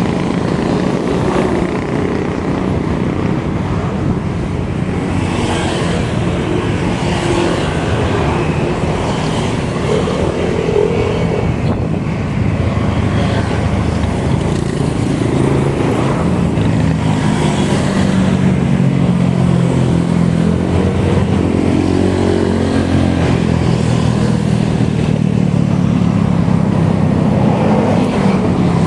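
Steady road and wind rumble of a bike ride at speed, with a motor vehicle's engine hum coming up about halfway through and growing slightly louder.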